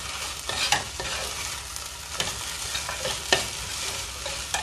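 Chopped okra, shallots and grated coconut sizzling in a hot pan while a spatula stirs them, with a few sharp clicks of the spatula against the pan.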